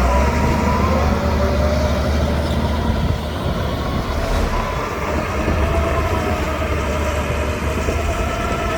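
Shantui DH17C2 crawler bulldozer running: a steady low diesel engine drone with a thin whine above it that slowly wavers in pitch.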